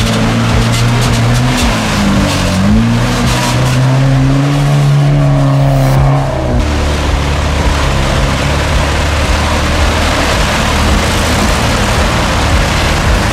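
Off-road 4x4's engine running hard at high revs, its pitch dipping briefly about two seconds in, then falling lower after about six seconds, over a constant rushing noise.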